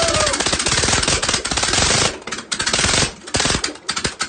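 Volvo B230 four-cylinder rally engine, on an aggressive Manen 7 cam and twin Weber 45 DCOE carburettors, running on its first start with rapid, hard firing pulses. About halfway through it begins to stumble, firing in broken bursts with gaps, and stops near the end.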